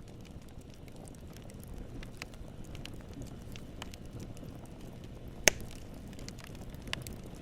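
Campfire burning: a steady low rumble of flames with scattered wood crackles and pops, one sharp pop about five and a half seconds in and another near the end.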